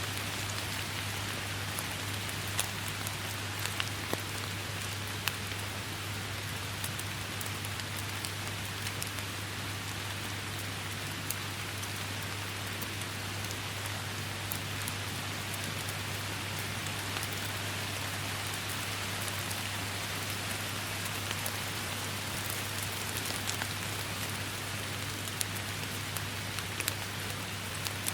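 Steady rainstorm: an even hiss of rain with many sharp individual drop hits scattered through it, over a steady low hum.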